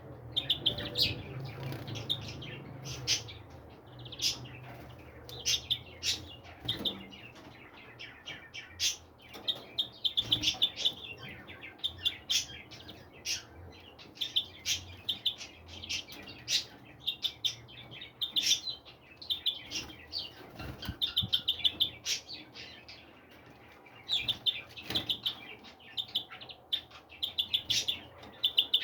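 Small birds chirping and twittering in quick trills, over and over, with many short sharp clicks among them.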